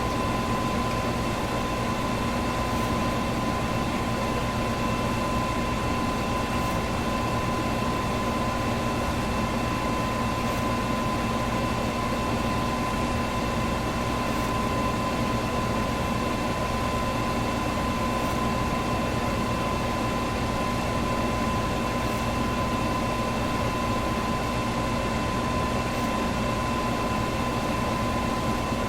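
Electric fan running steadily: an even whoosh of moving air with a constant motor hum and a thin, steady high whine.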